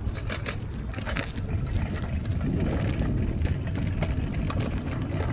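Steady low rumble of a vehicle in motion, swelling a little midway, with many scattered light clicks and rattles on top.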